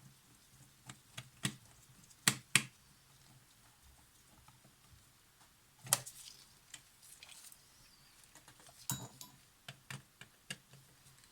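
Scattered small clicks and taps of tools and small camera parts being handled on a workbench, with two sharper clicks about two and a half seconds in and another near the middle.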